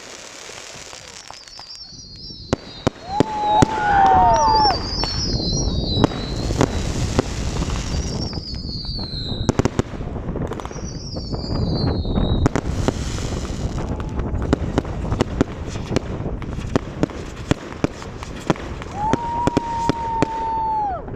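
Fireworks barrage going off in rapid succession: sharp bangs and crackles throughout, with several shells whistling as they rise, their pitch sliding downward, and a lower, steadier whistle about three seconds in and again near the end.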